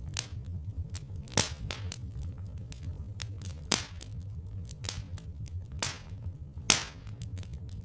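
Wood fire crackling, with irregular sharp pops, four of them louder, over a steady low rumble.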